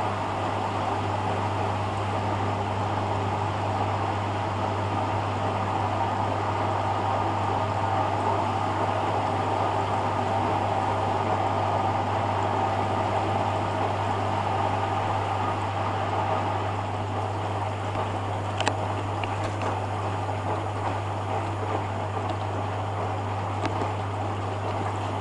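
Hoover Dynamic DYN11146PG front-loading washing machine on its rinse cycle: water swishing in the turning drum over a steady low hum, with a single light click about three quarters of the way through.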